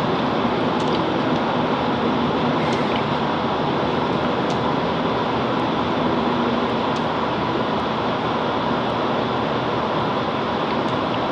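Steady interior noise of a Class 165 Networker Turbo diesel multiple unit standing at a platform: the underfloor diesel engine idles with a low hum under a wash of ventilation noise, with a few faint ticks.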